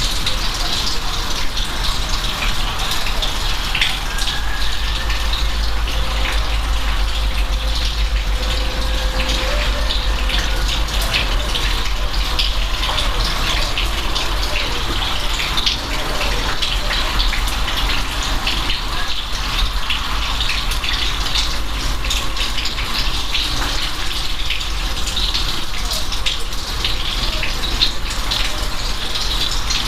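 Steady rain with a dense scatter of drops striking close by, over an even rush of running water.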